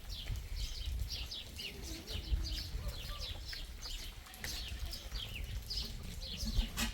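Small birds chirping, many quick falling chirps overlapping one another, over a low steady rumble. A single sharp click sounds near the end.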